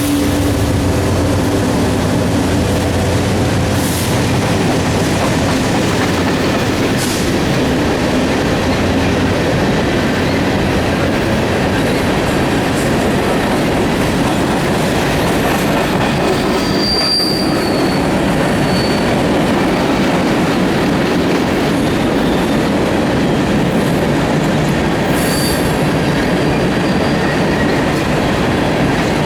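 Freight train's grain cars rolling past: a steady rumble and clatter of steel wheels on rail, with a few brief high wheel squeals. The steady drone of the lead diesel locomotives fades away in the first couple of seconds.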